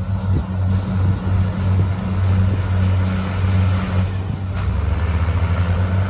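Komatsu bulldozer's diesel engine running steadily under load with a deep hum. About four and a half seconds in, its note drops a little and turns to a rapid, even throb.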